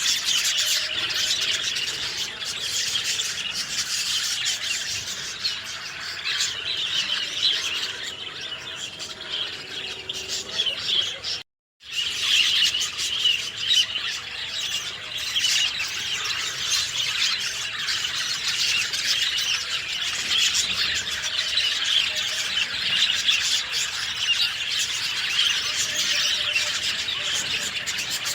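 Many small birds chirping and singing at once in a dense, continuous chorus of short overlapping calls. The sound drops out completely for a split second about eleven seconds in, then the chorus resumes.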